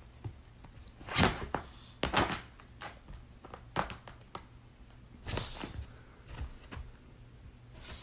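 A string of irregular knocks and thumps, about nine in all, with the loudest just after a second in and another around two seconds in, over a faint low hum.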